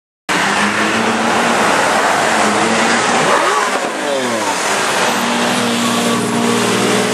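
Lamborghini V12 supercar engine running loudly; a few seconds in, a quick rev rises in pitch and falls back, then the engine settles into steady running.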